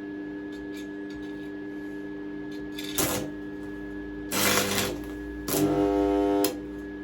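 Stick welder humming steadily while the electrode is struck on steel. There is a brief crackle about three seconds in, then a half-second sizzle, then about a second of buzzing arc that cuts off suddenly.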